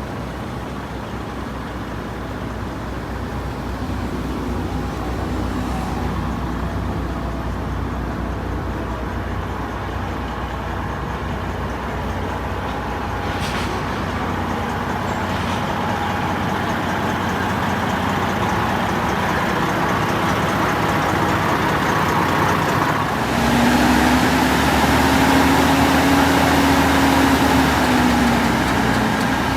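Heavy truck's diesel engine running under way, slowly growing louder; about 23 seconds in the engine note gets louder and a tone rises and then falls in pitch.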